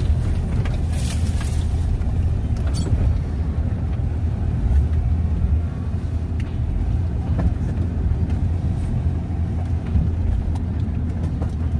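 Motor vehicle driving over rough forest ground: a steady low engine and drivetrain rumble, with a few scattered knocks and rattles.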